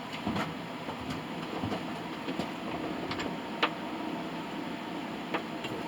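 A steady mechanical hum with about half a dozen short, sharp clicks and light knocks scattered through it.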